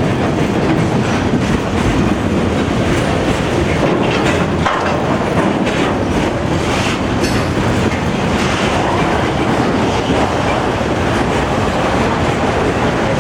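Train cars rolling past on the main line: a steady loud rumble with wheels clacking over the rail joints.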